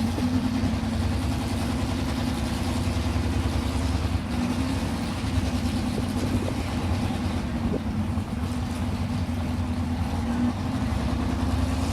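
A truck engine running steadily, with a deep drone and a steady hum above it that barely shifts in pitch.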